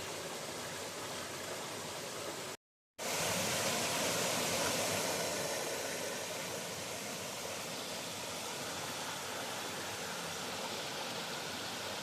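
Steady rush of river water flowing over rocks. It cuts out completely for a moment about two and a half seconds in, then comes back slightly louder for a few seconds before settling.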